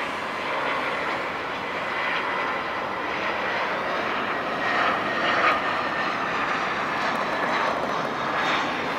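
Jet airliner's engines on approach to land: a steady rushing noise with a faint high whine, growing a little louder as the plane comes nearer.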